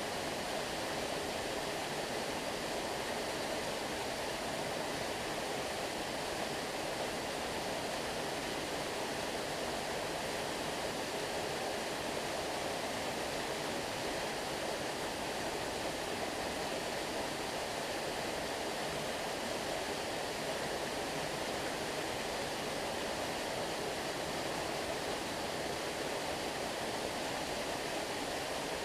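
Stream water flowing steadily, an even noise with no changes.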